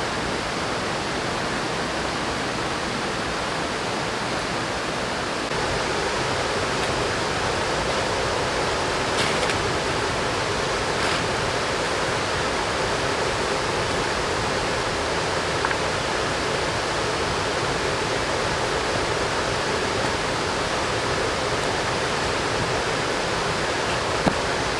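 Steady rushing of a fast-flowing mountain river, with a few faint taps.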